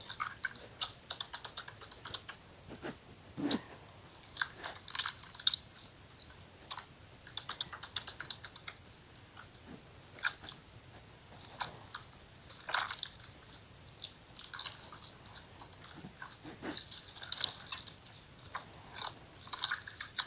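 Slime being squeezed and poked by hand: irregular wet crackling and small clicking pops, with a few louder squelches.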